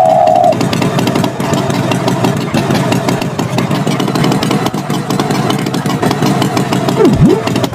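Tractor engine running steadily. A held higher tone stops about half a second in, and near the end a short tone swoops down and back up.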